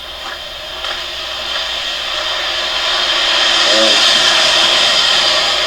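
A car passing on a wet, slushy road: a tyre hiss that swells to a peak about four seconds in and then starts to fade.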